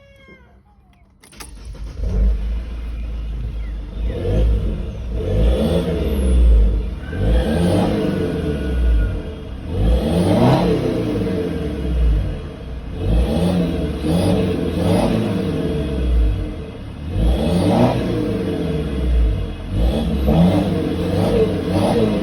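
Mercedes-Benz W203 C220 four-cylinder turbodiesel revved repeatedly, the pitch rising and falling every two to three seconds, with the turbo whistling as it spools. The sound comes in suddenly about a second in.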